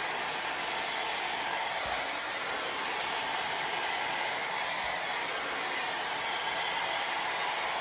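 Shark IQ blow dryer running steadily with its round-brush attachment on, a constant airy rush of blown air with no change in pitch or level.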